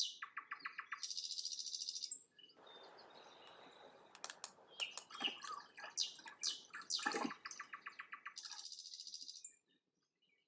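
Songbirds chirping and singing fast trills of rapidly repeated notes, with scattered single chirps between. The birdsong cuts off suddenly near the end.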